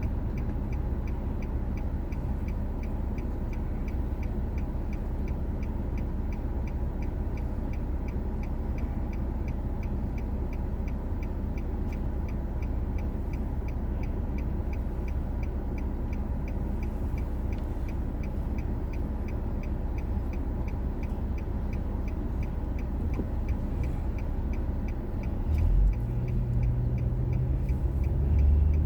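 Car driving, heard from inside the cabin: a steady low rumble of engine and tyres, with a faint, evenly spaced ticking throughout. Near the end, the engine note comes up louder and rises as the car speeds up.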